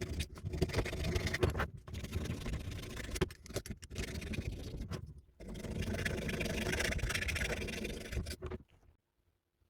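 Hand file rasping on the battered, misshapen metal end of an old hand drill, in long spells of filing with short pauses between them.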